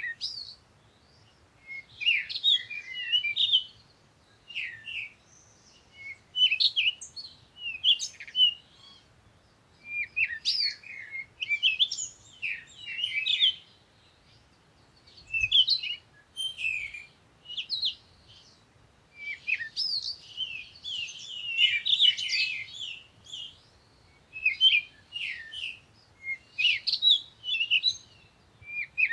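Songbirds chirping and twittering in quick high-pitched bursts of a second or two, with short pauses between them.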